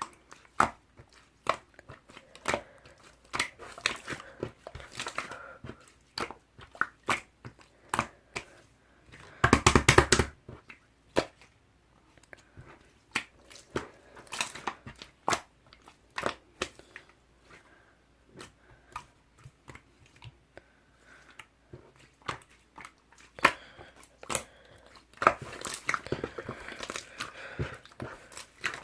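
Slime being squished, pressed and stretched by hand, giving irregular sharp clicks, pops and crackles as air pockets burst. A rapid run of pops comes about ten seconds in and another busy stretch near the end.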